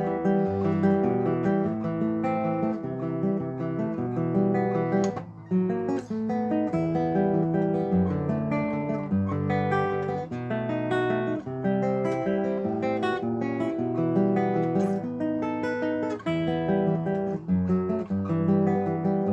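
Solo acoustic guitar playing a folk-song arrangement: a quick plucked melody over bass notes, with a brief dip in loudness about five seconds in.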